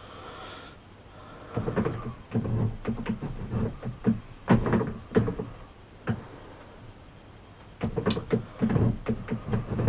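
Irregular metal knocks and clatter from a lathe being worked by hand to broach a keyway, in two spells with a short lull between.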